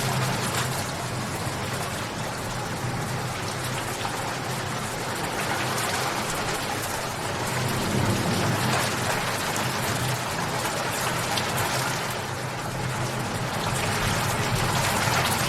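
Steady rain falling, a dense patter of drops on a surface that swells and eases a little.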